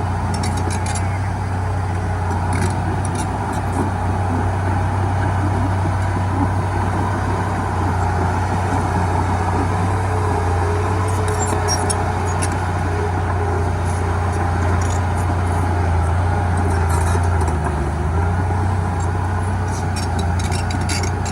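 Heavy diesel earthmoving machinery running steadily at a constant engine note, with scattered light clicks and clatter.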